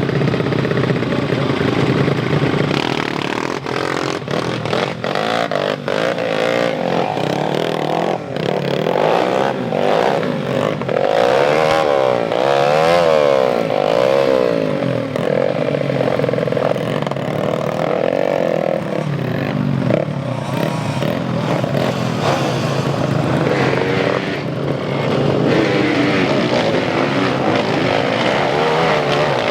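Motocross bike engines revving, their pitch rising and falling again and again as several engines overlap, with scattered clicks and clatter.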